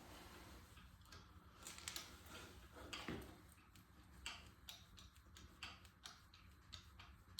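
Faint, irregular light clicks and ticks from hand tools being handled on the engine block, about one or two a second.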